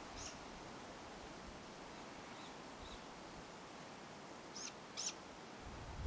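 A bird chirping faintly: short high-pitched calls that come in pairs, one pair at the start, a fainter pair about two and a half seconds in, and a clearer pair near the end.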